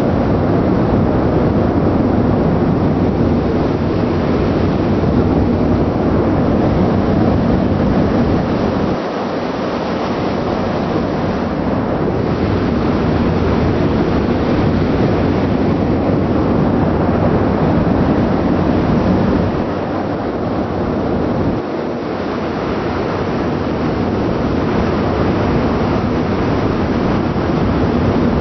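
Steady, loud wind and ship noise on deck at sea, with wind buffeting the microphone. The low rumble eases briefly twice.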